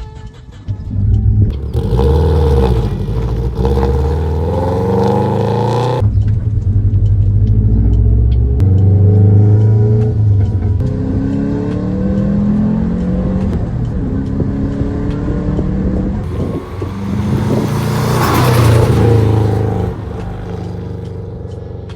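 Turbocharged Subaru car accelerating hard, the engine pitch climbing and dropping back again and again as it pulls through the gears. A loud hissing burst comes about eighteen seconds in.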